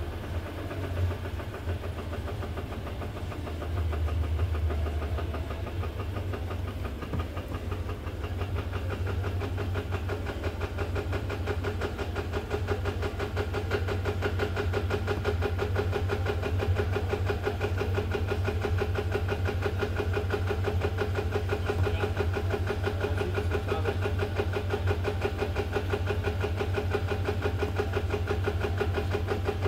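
Subaru FA20 flat-four engine idling steadily with a light, even rattle, the variable valve timing (VVT) rattle this engine is being checked for.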